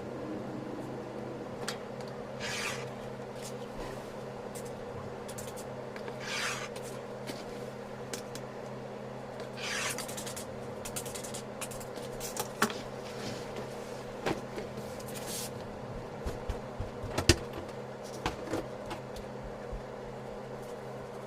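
Hand work on fabric at a sewing table: about four separate rubbing, scraping strokes of material sliding or being cut, with a few sharp taps, the loudest near the end. A steady low hum runs underneath.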